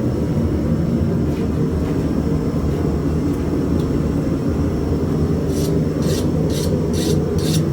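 A hand file scraped in quick strokes, about three a second, across a freshly hardened steel blade to test its hardness; the strokes start past the middle, over a steady low roar.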